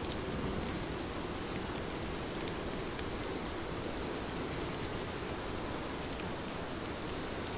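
Heavy rain falling steadily: an even hiss of downpour with fine ticks of drops striking a surface.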